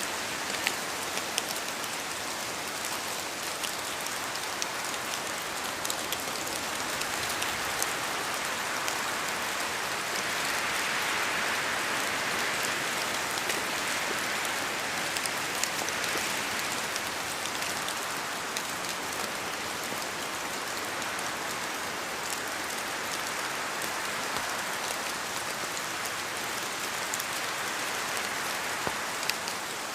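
Steady rain in a forest, with many separate drops falling from the trees and pattering among the leaves over an even rushing hiss that swells a little around the middle.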